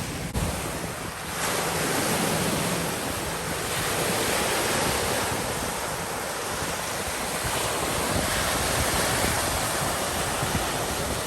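Waves on a choppy lake washing steadily, rising and falling in level over a few seconds, with wind buffeting the microphone.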